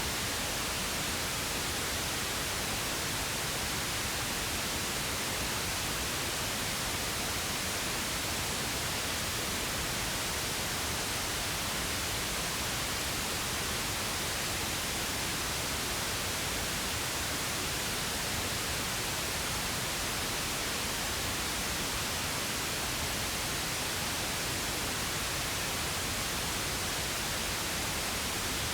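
Synthetic pink noise: an even, unchanging hiss with no breaks or other sounds.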